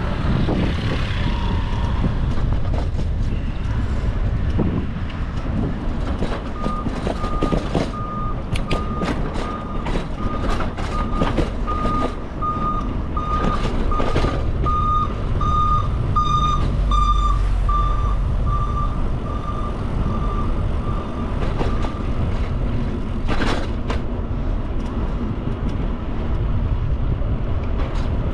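A vehicle's reversing alarm beeps steadily, about three beeps every two seconds, starting several seconds in and stopping a few seconds before the end. The beeps are loudest where a deep engine rumble swells, under a constant rumble of wind and traffic on the microphone.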